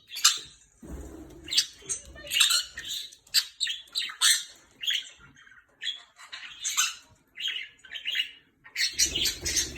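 Pet parrot squawking and chirping in a rapid run of short, sharp calls, with a low rustle around the first and last seconds.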